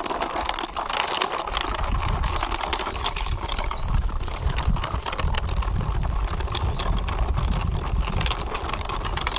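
Plastic wheels of a toy quad bike rolling and scraping along a rough wall, a dense run of small clicks over a low rumble. A bird gives a quick trill of high chirps about two seconds in.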